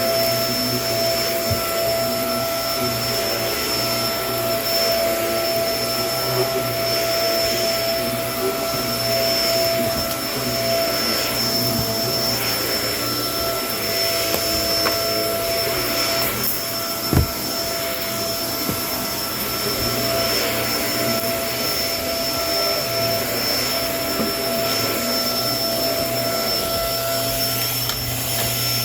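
Kenmore vacuum cleaner running steadily, its motor giving a constant whine over the airflow noise, with one sharp click a little past halfway.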